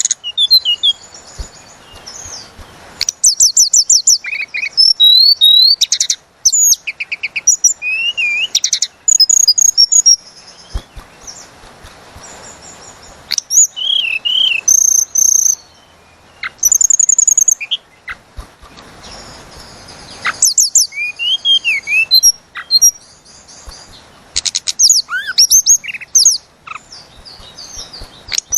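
Tledekan gunung songbird singing in repeated bursts of rapid, high whistled phrases and trills, with short pauses between bursts.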